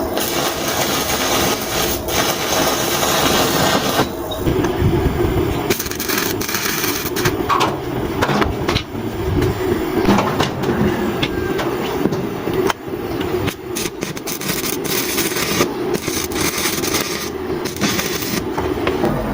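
Metalworking noise: continuous irregular scraping and rasping with scattered knocks and clicks.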